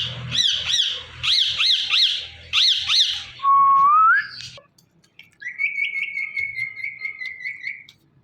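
Indian ringneck parrot calling: a run of about eight sharp, arching screeches over three seconds, then a short whistle that rises at its end, then a long, wavering whistle held for about two and a half seconds.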